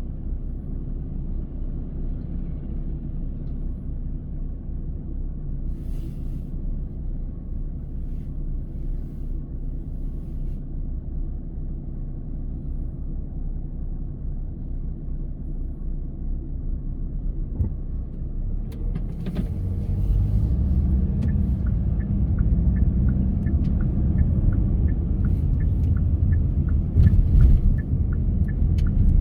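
Car driving on the road: a steady low rumble of engine and tyres that grows louder about two-thirds of the way in, with a run of evenly spaced light ticks over the last ten seconds.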